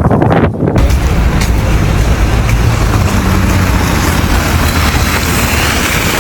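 Steady rumble of a motor vehicle with road noise. About a second in, uneven gusty noise gives way abruptly to this steady sound.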